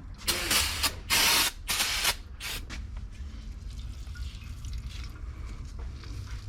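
Four short hissing sprays in quick succession, the loudest about a second in, as liquid and air are let out while the car's hydraulic pedal system is bled.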